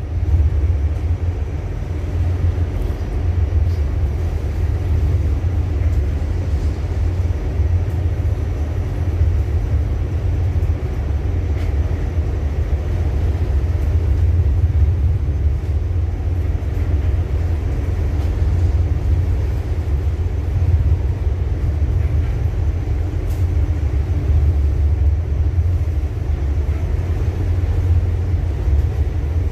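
Ship's engine running with a steady low rumble and a faint hum above it.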